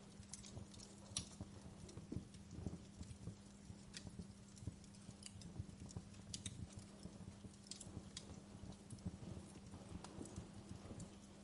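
Wood fire crackling: irregular sharp snaps and pops, some bright and some duller knocks, at an uneven rate of about one or two a second. A faint steady low hum runs underneath.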